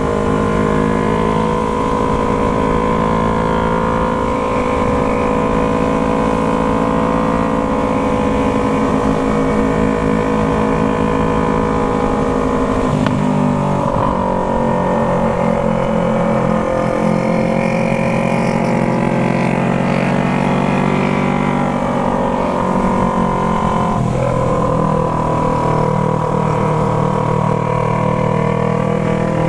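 Yamaha MT-03's parallel-twin engine running through an aftermarket Jeskap exhaust while riding, at a steady engine speed. Twice, about 13 and about 24 seconds in, the engine note drops sharply and then climbs back up.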